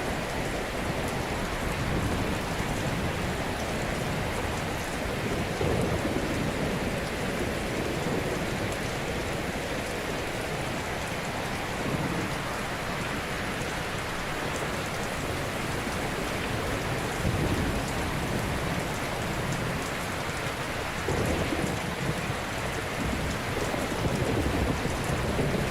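Ocean waves breaking on a shore: a steady wash of surf with deeper rumbling surges every few seconds, the strongest near the end.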